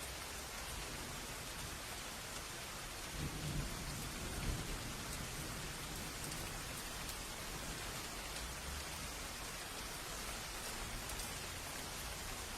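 Steady rain falling, with a low roll of thunder about three seconds in that swells for a couple of seconds and fades back into the rain.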